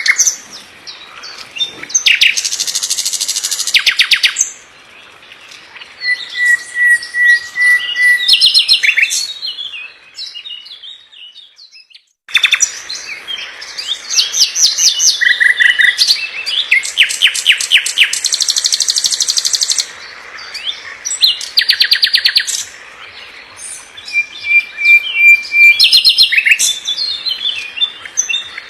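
Common nightingale singing: bursts of rapid repeated notes and trills, some phrases ending in a held whistle, with a brief pause about eleven seconds in.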